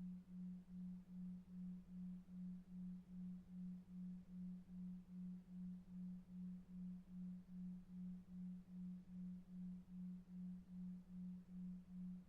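A low pure tone pulsing evenly about two and a half times a second, over faint brown noise: a 2.5 Hz delta-wave sleep tone.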